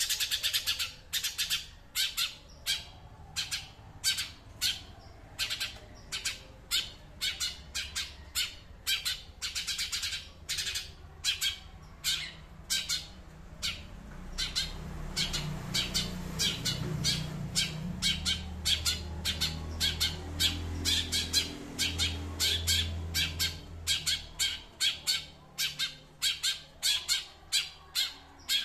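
A songbird repeating short, harsh chattering calls, about two a second, without a break. A low hum sits underneath from about the middle of the stretch to about three-quarters of the way through.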